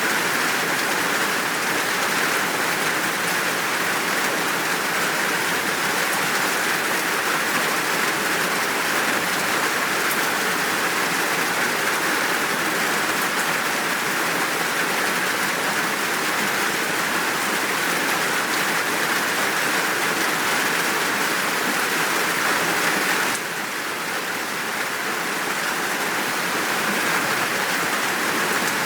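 Steady downpour of rain, an even dense hiss with no single drops standing out. About 23 seconds in it abruptly turns a little quieter and duller, then builds back.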